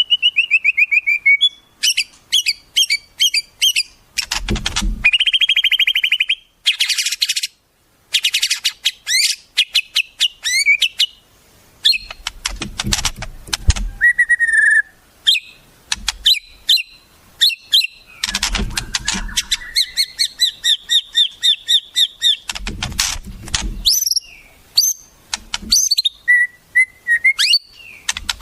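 White-rumped shama (murai batu) singing a long, varied song that is loaded with mimicked wild-bird calls: clear whistles, fast trills, rapid repeated chips and sliding notes, one phrase after another with short gaps. A few brief low rumbling bursts lie under the song.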